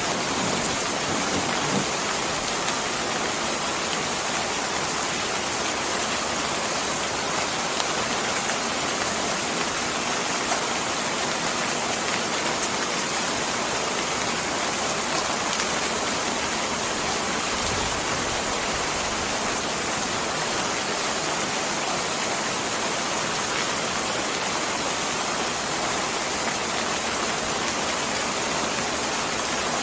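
Steady heavy rain, with a few faint crackles from a fireplace fire and a brief low rumble a little past the middle.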